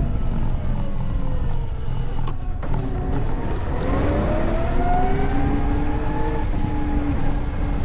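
Electric motorcycle's motor whine over a steady rumble of wind and road noise: the whine falls in pitch as the bike slows over the first couple of seconds, then rises again as it accelerates from about three and a half seconds in.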